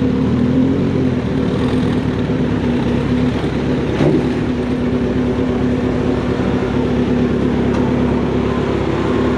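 Motorcycle engine and exhaust running at a steady pitch while riding, with a brief click about four seconds in.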